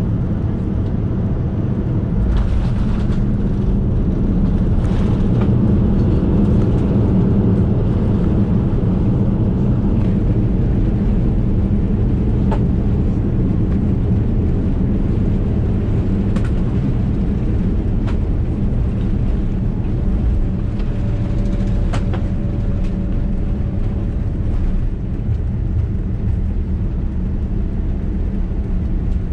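Steady low rumble of a Boeing 787-9's engines and airflow heard inside the passenger cabin during the descent to landing. It grows louder about two seconds in, with a few faint sharp clicks later on.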